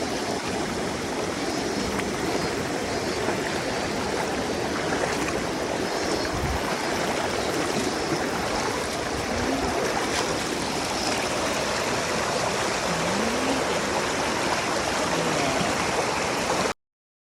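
Stream flowing, a steady rush of running water that cuts off abruptly near the end.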